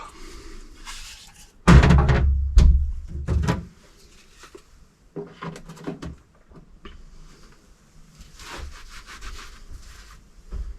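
Parts of a dismantled electric supercharger being handled and set down on a bench. A loud clatter of several knocks comes about two seconds in, followed by quieter scraping and rubbing and a short knock near the end.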